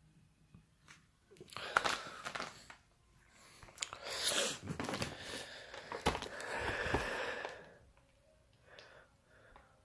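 Packaging being handled and unwrapped: two stretches of crinkling, tearing and scraping, the second longer, with a couple of knocks near its end.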